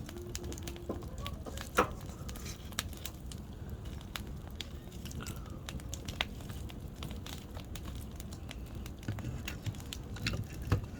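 Firewood burning in a campfire, crackling with scattered sharp pops, the loudest about two seconds in.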